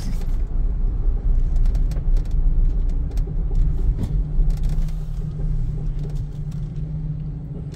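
A car running: a steady low engine and road rumble, with a few faint clicks.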